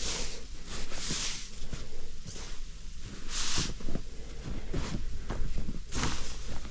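Snow being brushed and knocked off a tent: irregular swishes with soft thumps, the loudest swish a little after three seconds.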